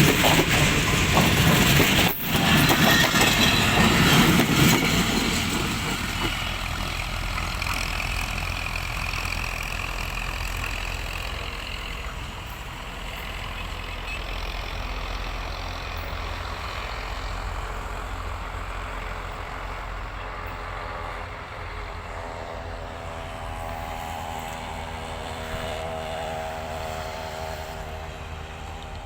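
Tezgam Express passenger train running. The noise is loud for the first few seconds, then eases over a few seconds into a steady, quieter rumble with a constant low hum.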